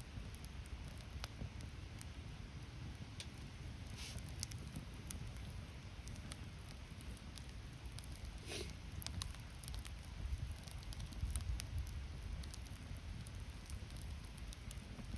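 Wood bonfire crackling, with scattered sharp pops over a low steady rumble; a louder pop comes about halfway through.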